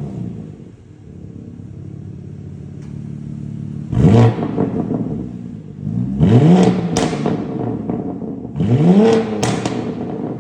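BMW G87 M2's twin-turbo inline-six through an aftermarket MPE exhaust with an equal-length midpipe, idling and then blipped three times, about four, six and eight and a half seconds in, each rev rising and falling back. A few sharp pops sound as the revs drop on the second and third blips.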